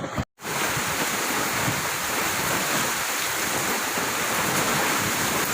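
Strong coastal wind blowing with the sea behind it: a steady, even rushing noise, with a brief dropout just after the start.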